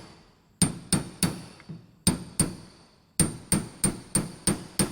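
A hammer striking metal in quick, ringing taps: three, then two, then a faster run of six, about three a second. The blows are driving the pump's spring-loaded mechanical seal out of its housing, and it is coming out stubbornly.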